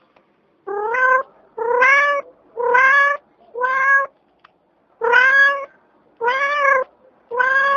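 A cat meowing over and over: seven short meows, about one a second, each rising slightly in pitch.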